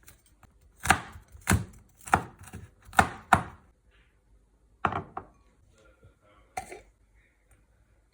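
Knife chopping on a cutting board: a run of sharp, irregular chops, denser in the first few seconds, then a few more spaced out after a short pause.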